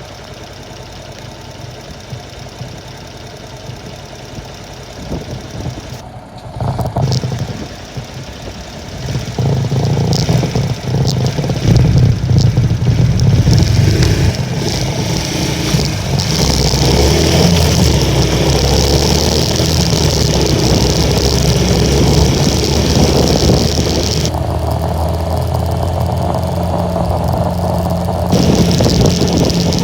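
Honda Little Cub's small single-cylinder four-stroke engine running quietly at first, then about nine seconds in it gets louder and runs steadily under load as the moped rides off, its pitch stepping up and down, with wind noise over it for a stretch.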